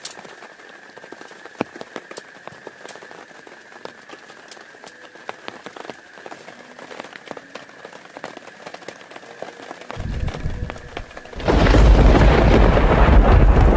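Raindrops ticking sparsely, then thunder: a low rumble starts about ten seconds in and breaks into a loud, long peal near the end.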